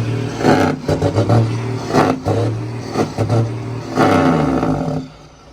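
Heavy truck engine running loud with a deep hum and some clatter, cutting off abruptly about five seconds in.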